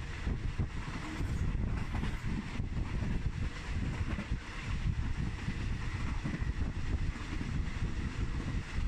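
Passenger train running along the track, heard from a carriage window: a steady low rumble.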